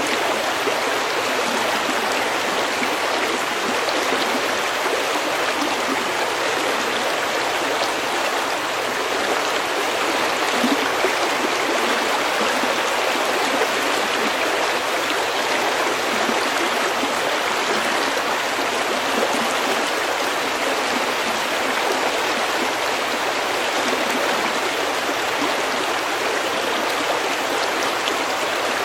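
Steady rush of a shallow stream flowing over pebbles, an even babbling with no pauses.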